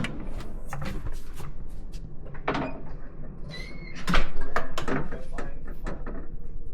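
A run of sharp clicks and knocks from a door and its latch being handled, with a short high beep about three and a half seconds in; the knocks are loudest and come thickest near the middle to end.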